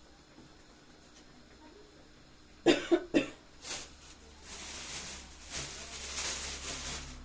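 A person coughs three times in quick succession, then a steady hissing rustle starts.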